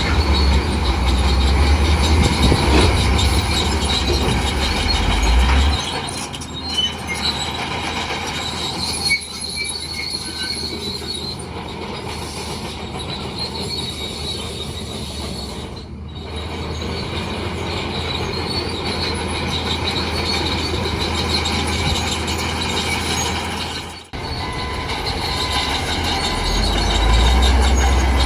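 Crawler bulldozer working: its diesel engine runs under load while the steel tracks give a steady high-pitched squeal. The engine is heaviest for the first six seconds or so and again near the end.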